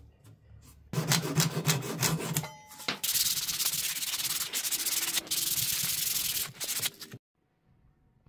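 Wood being sanded by hand with sandpaper: quick back-and-forth scraping strokes, then a longer, steadier stretch of rubbing that cuts off suddenly near the end.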